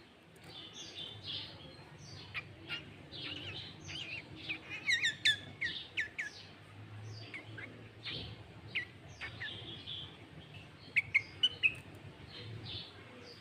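Sooty-headed bulbul (kutilang) singing a busy, varied run of chirps and whistled phrases, its song filled with cucak ijo (green leafbird) notes. Sharp, loud downward-sweeping notes come around five seconds in, and a quick series of four near the end, over a faint low hum.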